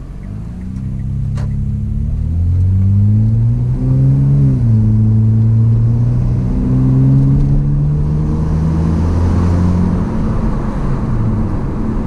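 Hyundai Azera V6 with its rear mufflers removed, accelerating hard under an automatic transmission, heard from the driver's seat with the window down. The revs climb, drop about four seconds in as the gearbox shifts up, climb again more slowly, then ease off near the end.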